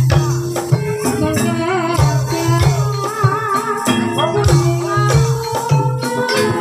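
Live gamelan music accompanying an ebeg trance dance: a wavering sung vocal line over held pitched notes, regular drum strokes and sharp rattling percussion.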